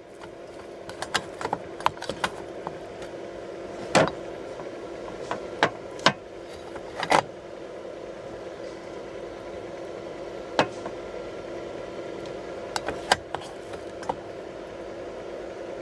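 Steady hum of an idling engine, with scattered light clicks and rattles of objects being handled and a few sharper knocks about 4, 6 and 7 seconds in.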